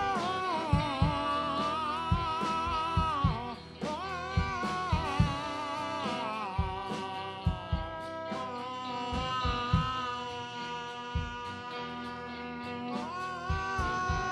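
Live band music: drum beats under a sustained, bending lead melody line with chords behind it.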